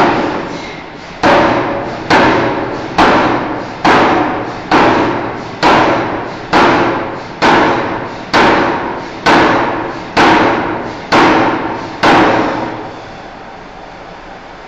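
Forging hammer striking a hot steel bar in a steady rhythm, about one blow a second, each blow a sharp metallic impact with a brief ring; the blows stop about twelve seconds in.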